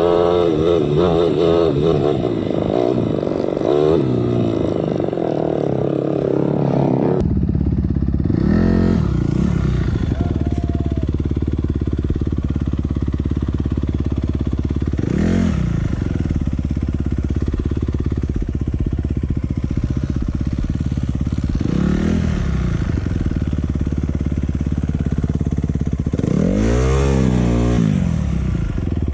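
Enduro motorcycle engines running and revving, the pitch rising and falling. About seven seconds in the sound changes abruptly to a steadier engine note with a rev every few seconds, the biggest revs near the end.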